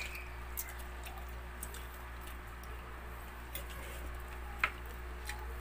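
Close-up chewing of balut (boiled fertilized duck egg): soft wet mouth clicks and smacks, with one sharper click near the end, over a steady low hum.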